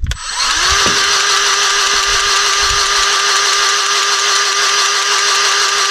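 Electric grease gun motor running with a steady whine as it pumps grease into an excavator's pivot pin until the grease purges out of the joint. It stops near the end.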